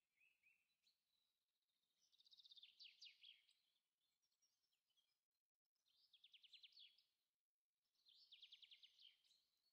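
Faint birdsong: short, rapid chirping trills, three main phrases a couple of seconds apart with softer chirps between.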